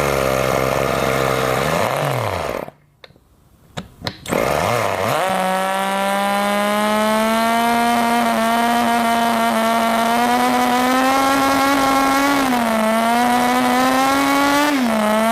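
Miniature rotary (Wankel) model engine running at high speed with a high, buzzing note; about two seconds in it winds down and stops, sputters a few times, then catches again and runs steadily with two brief dips in speed.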